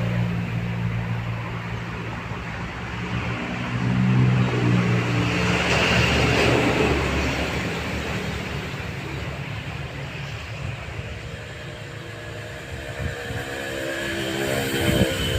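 Motor vehicle engines running, growing louder as one passes about four to seven seconds in, and another rising in pitch near the end.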